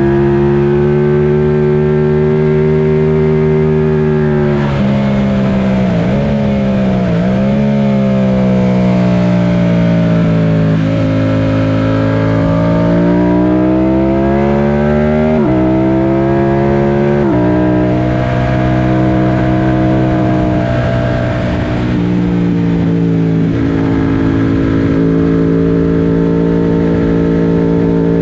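Yamaha FZ-07's parallel-twin engine under way on a race track. It holds steady revs, dips with a couple of quick throttle blips about five to seven seconds in, then slowly falls and climbs again. In the second half the pitch drops suddenly several times at gear changes.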